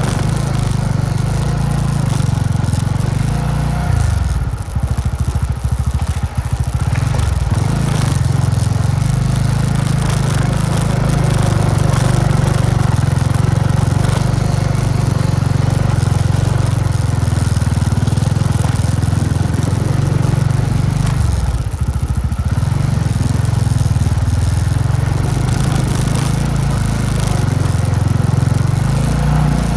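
Motorbike engine running steadily while riding, its low note dropping away briefly twice, about four seconds in and again around twenty-two seconds.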